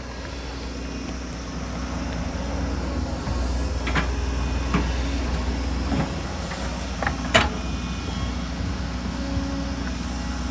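Excavator's diesel engine running steadily, growing louder over the first couple of seconds, with a few sharp knocks, the loudest about seven seconds in.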